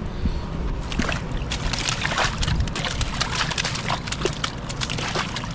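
Water sloshing and splashing, with a dense run of short splashy crackles through the middle.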